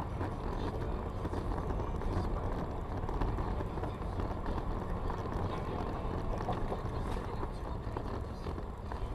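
Steady rumble of a moving car's engine and road noise, with no crash or impact heard.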